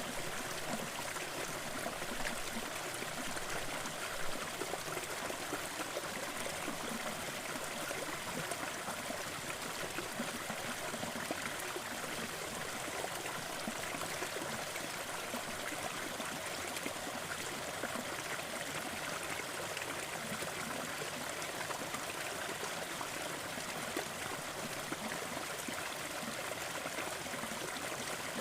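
Small waterfall splashing steadily into a stream, an even rushing and trickling of water.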